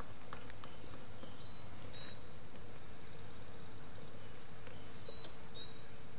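Outdoor ambience of steady background hiss with faint bird calls: two short whistles sliding down in pitch about a second in, and another pair near five seconds.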